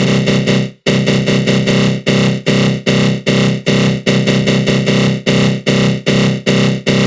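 Synthesized attack-growl sound effect: a harsh synth tone run through a flanger, growling in quick repeated pulses, about two or three a second, after a brief drop-out near the start.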